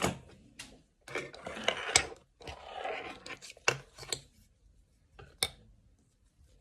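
Small scissors snipping the loose joining threads off a machine-embroidered name patch: a few sharp single snips, with about two seconds of rustling and rubbing from the fabric being handled early on.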